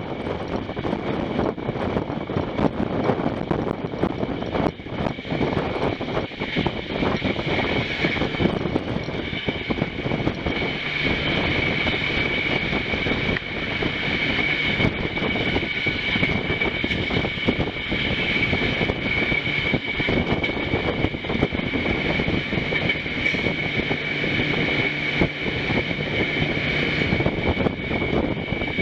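Passenger train running at speed: a steady rumble of wheels on the track with a constant high-pitched ringing tone above it.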